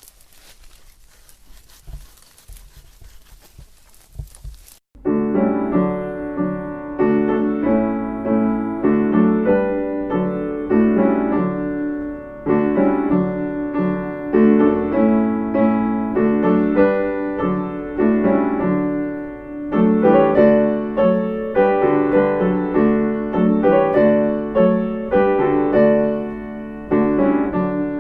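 Faint outdoor background with a few soft knocks, then, about five seconds in, solo piano music starts abruptly and plays on at a steady, moderate pace.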